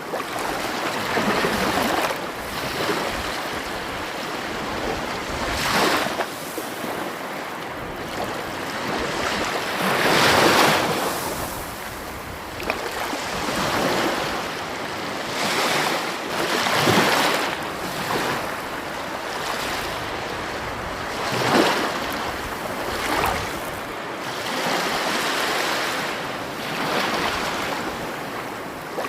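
Sea waves breaking and washing ashore, surging every few seconds.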